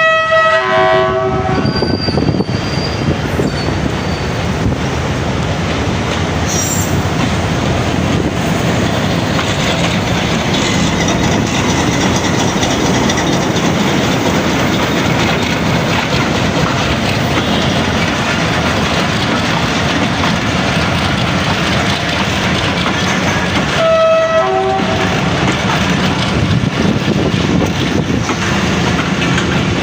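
Passenger train running past: the locomotive's horn sounds at the start and again briefly about 24 seconds in, while the coaches roll by with a steady rumble and clickety-clack of wheels over rail joints.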